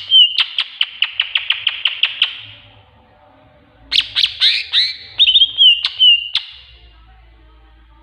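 Tengkek buto kingfisher calling: a loud, rapid series of about a dozen sharp, evenly spaced notes. After a pause of over a second, a second phrase of quick sweeping notes ends in a short held whistle.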